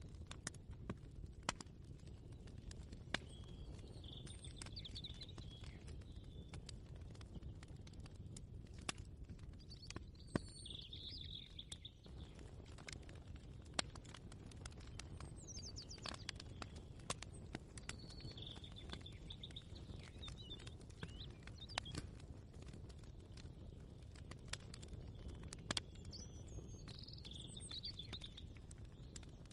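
Faint kitchen ambience: a steady low hum with scattered light clicks and knocks. Birds chirp briefly five times in the background.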